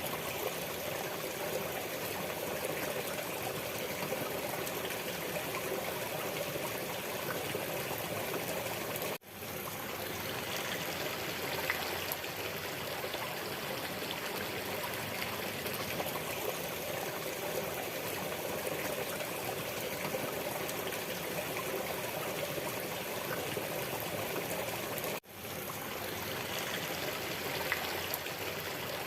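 Waterfall water rushing and splashing steadily, an even flow of noise that cuts out for an instant twice, about 9 and 25 seconds in.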